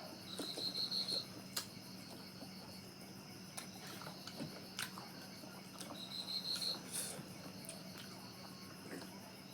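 Cricket chirping in two short trills of rapid pulses, one near the start and one about six seconds in, over scattered faint clicks and a steady low hum.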